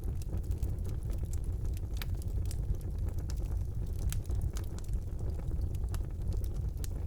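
Wood fire burning in a fireplace: a steady low rumble of the flames with frequent sharp crackles and pops scattered through it.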